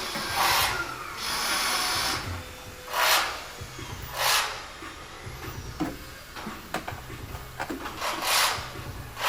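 Hand-tool work on a car engine: several short rasping strokes, then a run of light scattered clicks and knocks.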